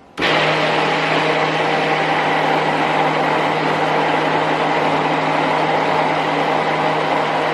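Electric stick blender mixing soap batter, switched on just after the start and running at one steady speed.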